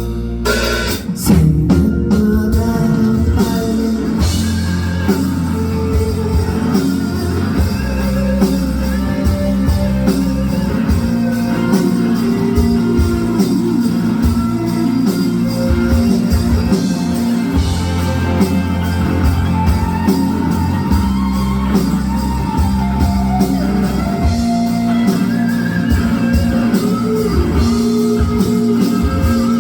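Live rock song with a singer over electric guitar, bass and drum kit. The full band comes in with a loud hit about a second in, then carries on at a steady beat.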